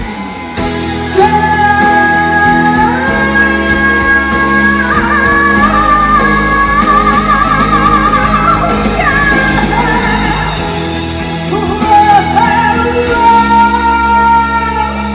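Live band music with a singer holding long notes with vibrato, stepping up in pitch in a big closing chorus.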